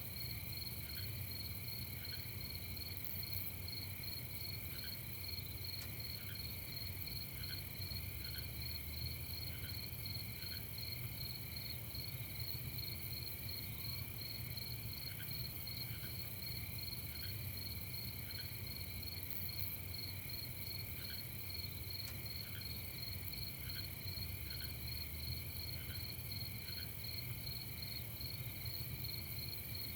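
Night chorus of crickets chirping steadily in fast pulsing trills, with a fainter short chirp repeating about once a second and a low steady rumble underneath.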